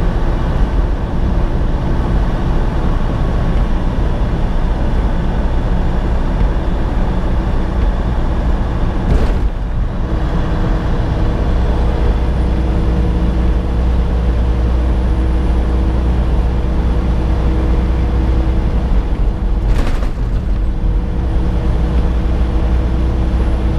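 Steady drone of a semi-truck cruising at highway speed on a wet road, heard inside the cab: diesel engine and tyre noise. A steady hum joins about ten seconds in, and there are two brief sharp sounds about nine and twenty seconds in.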